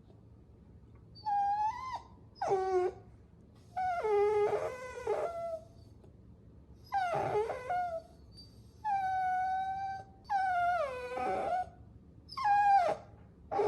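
Puppy whining: about seven high-pitched whines and whimpers in a row, several sliding down in pitch, with short pauses between them.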